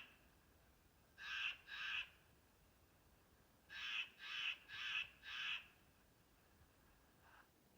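Gray jay giving harsh, scolding calls close by: two calls about a second in, then four more in quick succession a couple of seconds later. It is a loud, annoyed call at people being near its tree.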